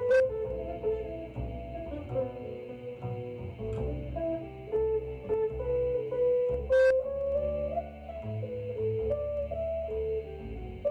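Jazz music played through a stereo system's loudspeakers and picked up in the room: a guitar melody of plucked, held notes over a bass line.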